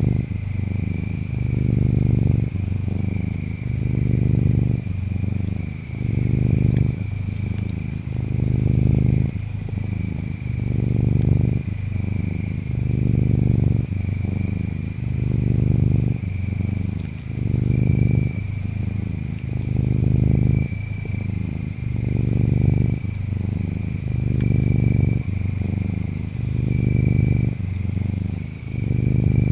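A cat purring steadily, swelling and fading with each breath about every two seconds. Crickets chirp in a steady high trill behind it, with short bursts of higher insect buzzing.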